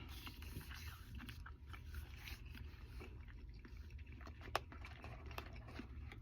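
A person chewing a mouthful of fast food close to the microphone: quiet, irregular little clicks and mouth sounds, with one sharper click about four and a half seconds in.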